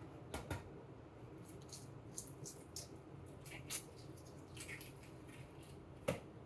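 Faint scattered light clicks and taps of kitchen handling over a low steady hum, with one sharper knock near the end.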